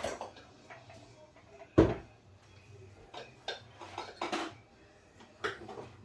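Kitchen clatter: one sharp knock of a container set down on a countertop about two seconds in, followed by a few lighter clicks and taps of handled utensils and containers.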